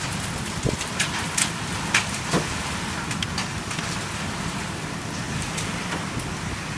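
Heavy rain falling steadily, with scattered sharp ticks of drops striking a hard surface.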